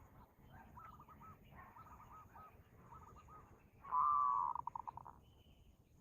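A bird calling: a few short warbled phrases at about the same pitch, then a much louder call about four seconds in that breaks into a quick run of fading pulses.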